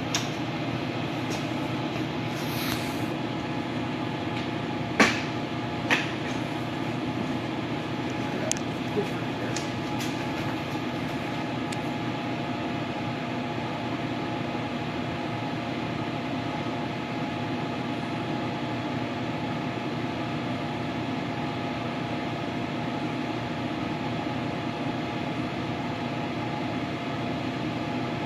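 Machine lathe running steadily with a steady hum while turning an aluminum shift knob, with a few sharp clicks about five and six seconds in and two fainter ones a little later.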